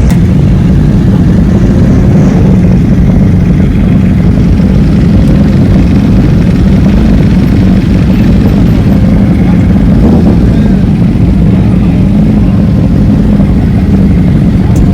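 Motorcycle engine running steadily: a loud, continuous low rumble with no sharp breaks.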